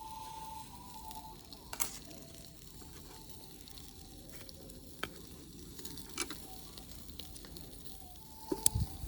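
Cooking over a small wood fire: a steady sizzle with a few sharp crackles.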